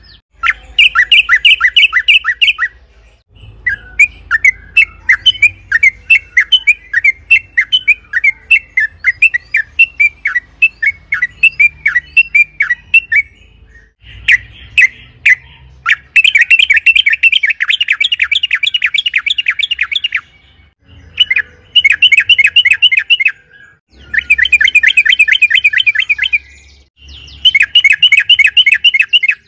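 Trucukan (yellow-vented bulbul) singing loudly. It starts with quick choppy notes, then from the middle on gives several long, fast rattling runs, each two to four seconds long, with short breaks between them.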